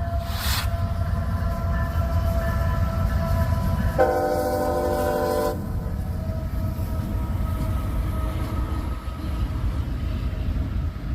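Approaching CSX freight train: the diesel locomotive's air horn sounds a chord, with a strong blast about four seconds in lasting about a second and a half and fainter held tones around it, over a steady low rumble.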